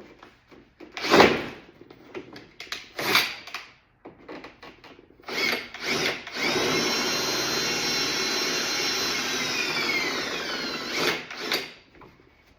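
A few knocks of handling, then a power drill runs steadily for about five seconds, drilling out the rivets that hold a door panel together. Its pitch drops as it winds down and stops.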